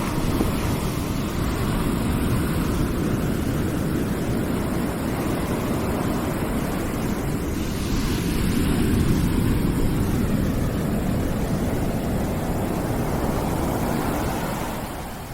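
Continuous rushing noise from a background noise track, heaviest in the low range, swelling slowly and easing, then falling away near the end.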